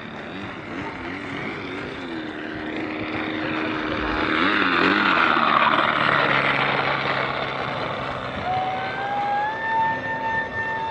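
Petrol-engine, single-propeller radio-controlled model plane flying by. The engine note swells to its loudest about halfway through, then eases, and its pitch wavers and climbs near the end.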